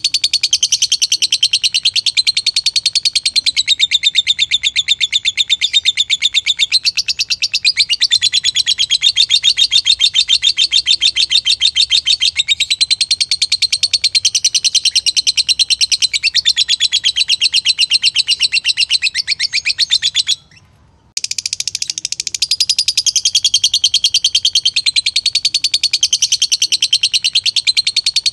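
Lovebird singing a long, unbroken run of very fast repeated high chirps, the pitch wavering slowly up and down. It breaks off once, for about half a second, some twenty seconds in, then carries on.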